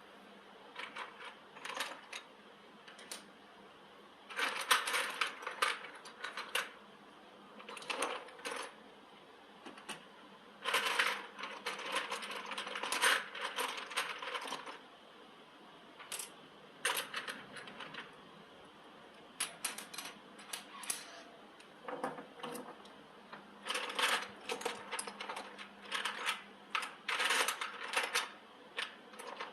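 Metal parts being handled and fitted by hand: light metallic clinks, taps and rattles come in irregular clusters with short pauses between, over a faint steady hum.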